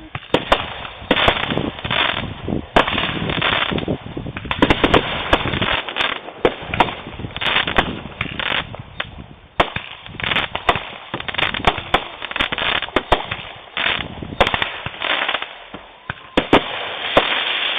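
Fireworks going off in a dense, continuous barrage: rapid irregular bangs and crackling with no let-up.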